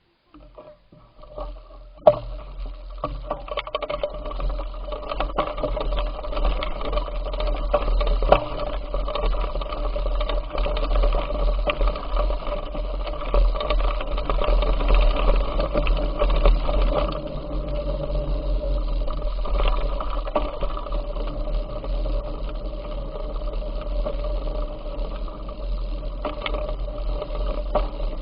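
Bicycle riding noise: a steady mechanical whir with many small rattling clicks over a low rumble. It starts about half a second in and grows louder over the next second or so.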